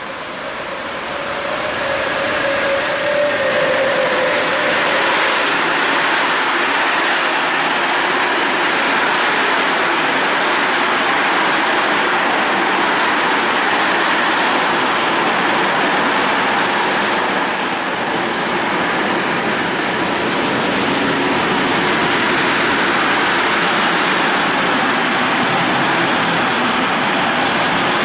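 A train passing at speed: a steady rush and rumble of wheels on the rails, swelling over the first couple of seconds and then holding loud. A thin high-pitched squeal comes in for a few seconds about two-thirds of the way through.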